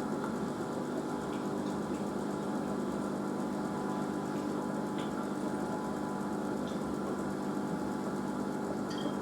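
Asko washing machine in its spin cycle: the motor and drum running at a steady speed with a hum made of several fixed tones. A few faint, brief high squeaks sound now and then.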